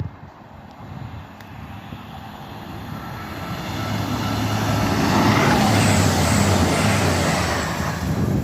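Train running through the station, growing steadily louder over several seconds to a loud steady rumble with a low hum and a higher whine.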